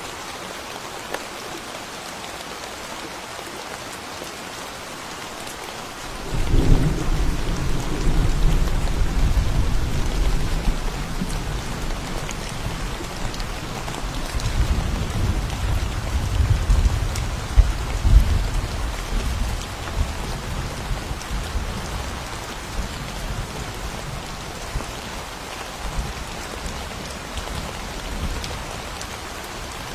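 Steady heavy rain falling on a forest path, with a long roll of thunder that breaks in suddenly about a fifth of the way through, rumbles on with a second swell near the middle, and dies away well before the end.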